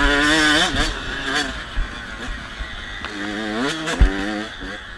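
KTM 85 SX two-stroke motocross bike engine revving: the pitch climbs sharply and holds, then climbs again about three seconds in. A heavy thump comes about four seconds in.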